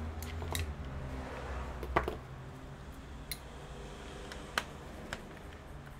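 A handful of sharp, separate clicks and taps from small laptop parts and plastic being handled, the loudest about two seconds in. A low hum fades out within the first two seconds.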